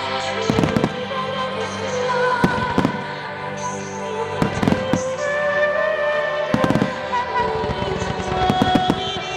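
Starmine fireworks display: aerial shells bursting in sharp bangs, some single and some in quick clusters, every second or two. Music with long held notes plays under the bangs.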